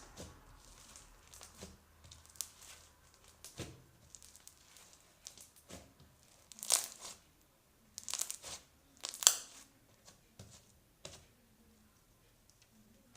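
Slime being squeezed and pulled apart by hand, giving sticky crackles and pops, the loudest a few about seven to nine seconds in.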